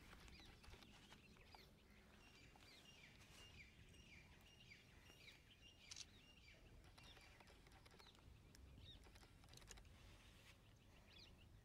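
Near silence, with faint bird chirps in the background: a series of short, falling chirps, most of them in the first half, and a few faint clicks.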